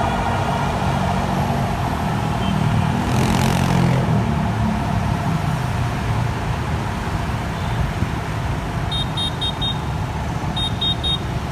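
Street traffic at a city bus stop: a heavy vehicle's engine running with a low steady rumble, a short hiss about three seconds in, and two quick runs of high electronic beeps near the end.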